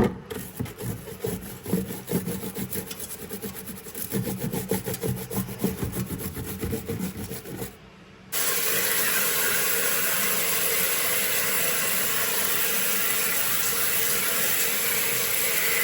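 A stiff brush scrubbing the nozzle face of a rain shower head, an uneven rapid rubbing. About halfway through it cuts off, and a steady hiss of hot water from the sink tap running onto the shower head follows, rinsing it.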